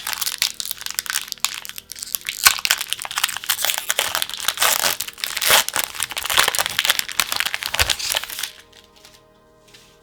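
Packaging of a pack of card sleeves crinkling and crackling as it is handled and torn open by hand, with many sharp crackles. It stops about 8.5 seconds in.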